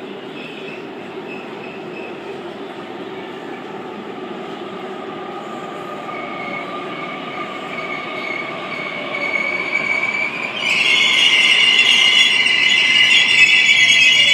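Sydney Trains Waratah electric train pulling into the platform: a rumble that grows louder as it approaches. About ten seconds in, a loud, high squeal of wheels and brakes starts as the train slows.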